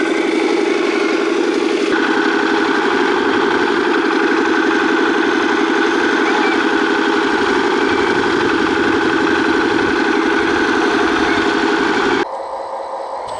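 A 1/14-scale hydraulic RC construction machine running steadily, its motor and hydraulic pump humming with a fast, even pulse. A higher whine joins about two seconds in, and the sound drops off abruptly near the end.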